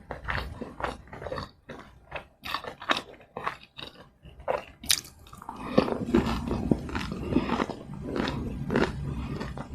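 Close-miked eating of fried snacks: bites and chewing with many short crisp crunches, becoming denser and more continuous from about halfway through.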